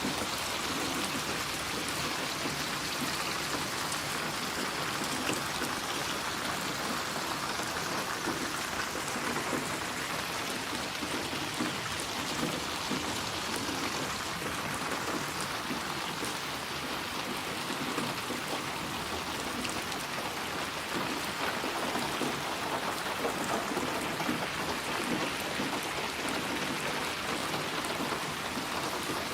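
Steady rain falling, with fine patter of drops on a surface.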